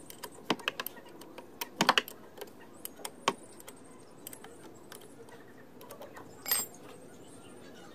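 Metal tools and parts clinking while a power sprayer's pump is being taken apart: irregular sharp clicks and knocks, loudest about two seconds in, with a short rattle at about six and a half seconds.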